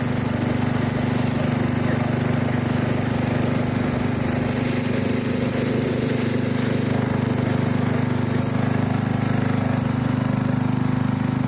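The Briggs & Stratton engine of a 1997 MasterCraft (MTD-built) riding mower running steadily at constant speed, with no change in pitch.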